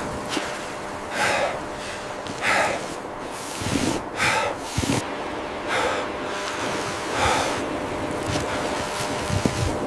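A person breathing heavily and rhythmically, about one breath every second and a half, over a steady low background.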